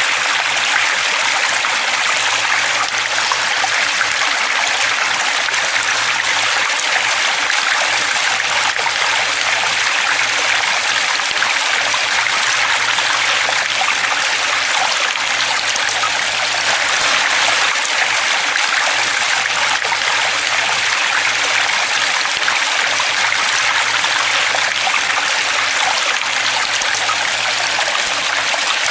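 Flowing stream water: a steady, even rush and trickle of running water with no pauses.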